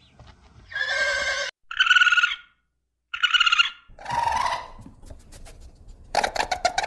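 A series of short animal calls, about five of them, each under a second and cut apart by abrupt silences, with a rapid run of clicks near the end.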